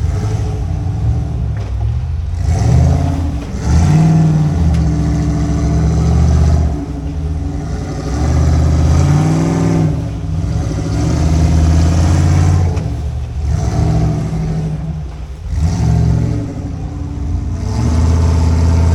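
Off-road rock crawler's engine revving in repeated bursts, rising and falling, as the rig works its way over rocks.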